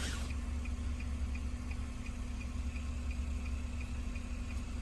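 Steady light ticking from inside the car, about two a second, over a low steady hum, heard during a pause in the key-programming procedure.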